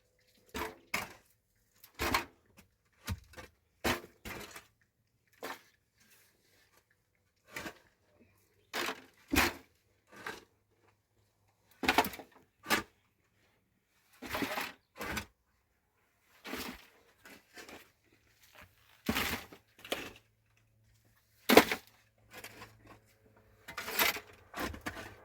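A string of separate sharp knocks and clatters at irregular intervals, with silence between them, as of objects being handled and set down or struck; one of the loudest comes about three-quarters of the way through.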